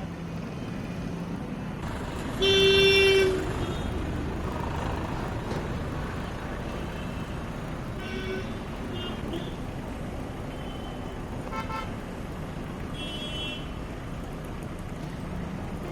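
Vehicle horns honking over steady traffic noise: one loud horn blast about two and a half seconds in, lasting under a second, then shorter, fainter toots around the middle and near the end.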